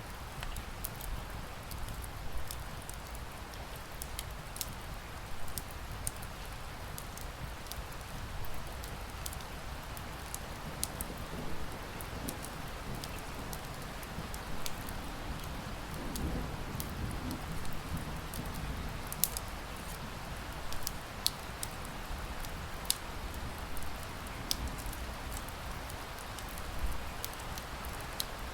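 Steady rain pattering, mixed with a wood fire crackling: irregular sharp pops and snaps over a low rumble, a few louder pops in the second half.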